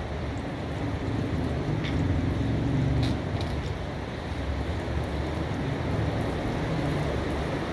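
Steady rain falling, an even hiss throughout, with a low rumble that swells and fades between about one and a half and three seconds in, and a few faint drop ticks.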